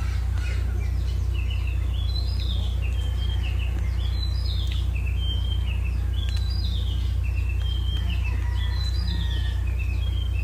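Birds chirping over and over in short, high, stepped calls, over a steady low hum.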